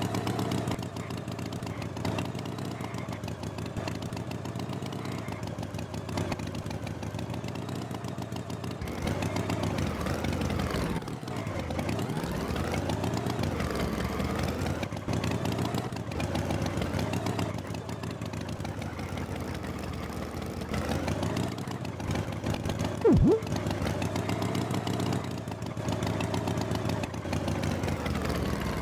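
Motor engine running, its pitch rising and falling as it revs up and down, with a brief sharp sound about 23 seconds in.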